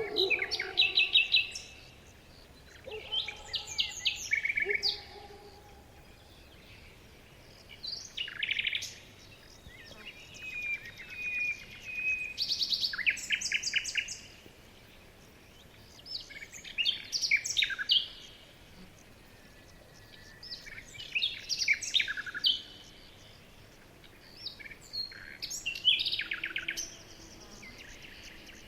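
Songbirds singing in short phrases of rapid, high chirps and trills, one every few seconds, with quiet gaps in between.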